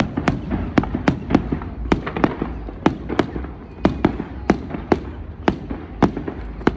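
Fireworks going off: a rapid, irregular series of sharp bangs and cracks, several a second, over a steady low rumble.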